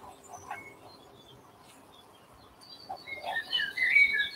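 Small garden birds chirping, a quick run of short chirps from about three seconds in. Faint scraping of a spoon stirring rice in a pan in the first second.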